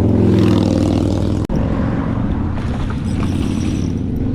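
An engine running steadily with a low, even hum, broken by a very brief dropout about a second and a half in.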